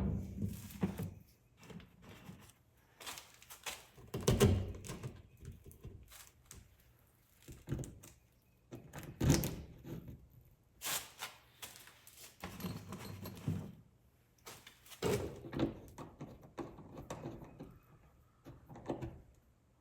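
Intermittent knocks, clunks and rattles of tools and hardware being handled during a wall-mount install, with quiet gaps between. The loudest knocks come right at the start and about four and nine seconds in.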